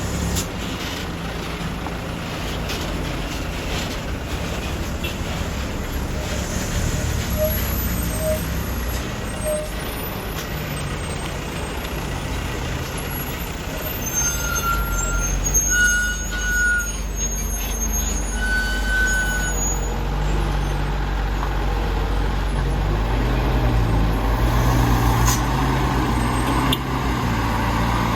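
A heavily loaded Mitsubishi Canter truck's engine running steadily, its pitch shifting up and down in the later part. Three short high tones sound in the middle.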